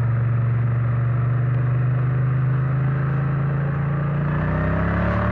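Triumph Bonneville T100 parallel-twin motorcycle engine running steadily, then rising in pitch over the last couple of seconds as it accelerates.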